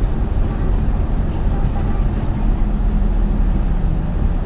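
Isuzu Erga (2RG-LV290N3) city bus running, heard from inside the cabin: a steady diesel engine drone with road rumble.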